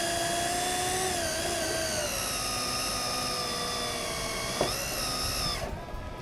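Electric motor of a DR10 Pro radio-controlled drag car running with a steady high-pitched whine, its pitch easing slightly lower, then cutting off abruptly near the end.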